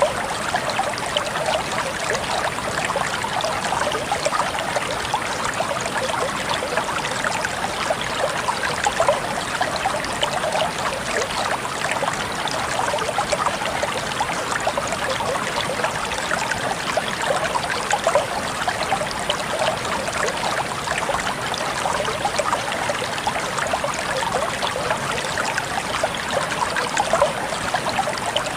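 Clear water of a small stream babbling and trickling over rocks, a steady splashing murmur with many small gurgles.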